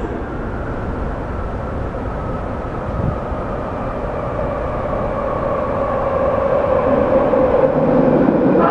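A train pulling into an underground station platform: a steady rumble that builds over the last few seconds, with a humming tone that strengthens near the end.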